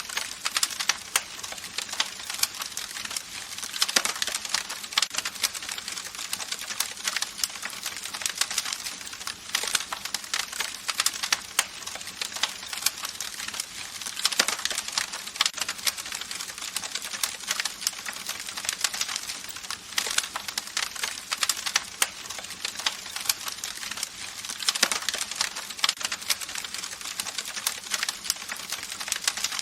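Campfire crackling: a dense, irregular run of sharp pops and snaps from burning wood over a steady hiss, with a few louder pops now and then.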